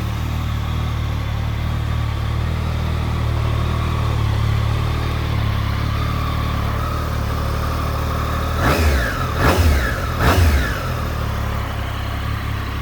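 2018 Triumph Street Triple R's 765 cc three-cylinder engine idling steadily, then revved three times in quick throttle blips, the pitch shooting up and dropping back each time, before settling back to idle near the end.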